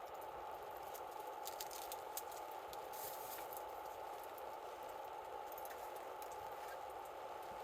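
Wood campfire crackling: scattered small sharp pops over a steady hiss.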